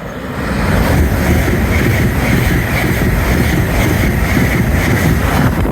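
A train passing through the station at speed: a loud rush of wheel and rail noise that builds quickly, holds steady for about five seconds, then drops away near the end.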